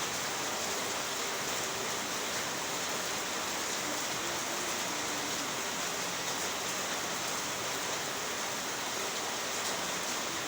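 Heavy rain falling, a steady dense hiss with no letup.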